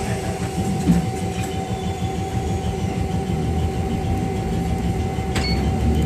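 Randen (Keifuku Electric Railroad) electric car rolling slowly along the track, heard from inside the car: a steady low rumble of wheels on rail with a constant thin whine. A sharp wheel clack comes about a second in and another near the end.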